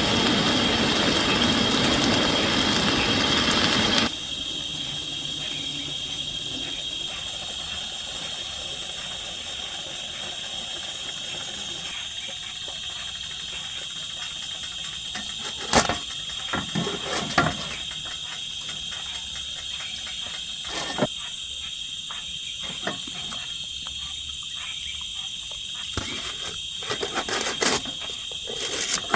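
Forest insects, crickets or cicadas, droning in one steady high note. A loud hiss fills the first four seconds and cuts off suddenly, and a few sharp knocks and clatters of camp-cooking handling follow later.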